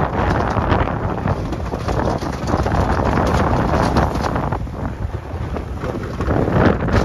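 Strong wind buffeting the microphone, rising and falling, over a pickup truck driving through snow.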